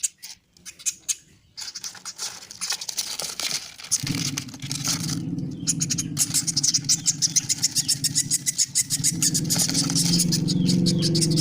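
Woodpecker nestlings begging while being hand-fed, a fast run of short, high, repeated calls that grows steadier from about halfway. A steady low hum starts under them about a third of the way in.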